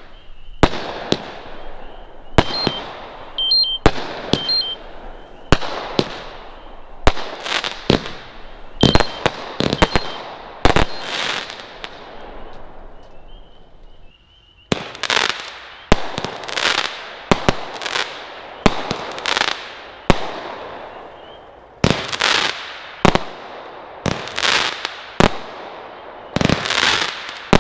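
Consumer firework cakes firing a rapid string of aerial shots: sharp bangs less than a second to a couple of seconds apart, each followed by a crackling, hissing tail that fades and echoes. The shots pause briefly about halfway through, then go on.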